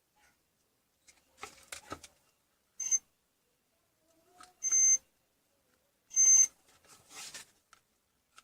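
Three short, high electronic beeps, a couple of seconds apart, with light clattering and rustling of handling between them.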